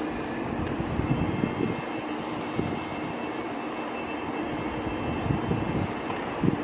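A train running, a steady rumble with a faint steady high whine above it and a few low knocks.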